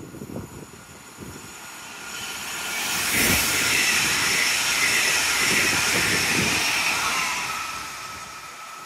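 Alstom Avelia Pendolino ED250 electric multiple unit passing through the station at speed: a rushing of air and wheels on rail that swells from about two seconds in, is loudest around three seconds as the front goes by, holds while the cars pass, and fades near the end.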